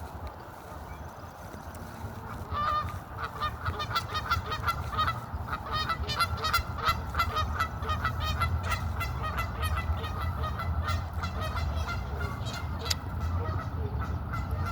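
A flock of birds calling: many short, repeated calls that start a couple of seconds in and soon overlap one another, over a steady low rumble.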